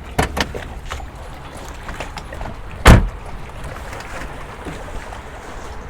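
Car door being opened on a Mercedes-AMG SLS Roadster: a few latch and handle clicks near the start, then one loud thump about three seconds in.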